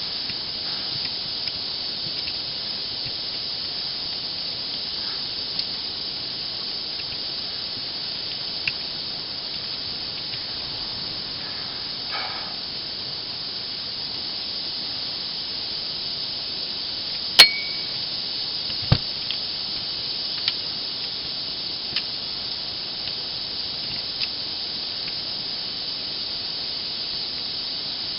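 Steady high hiss with a dozen or so short sharp clicks and metallic clinks scattered through it, the loudest about two-thirds of the way in with a brief ring: Allen wrenches and small metal parts handled while a DeWalt nail gun is taken apart, played back sped up.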